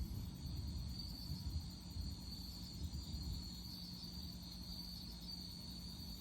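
Crickets trilling steadily at night over a low rolling rumble of distant thunder. The rumble swells a few times and dies down after about three seconds.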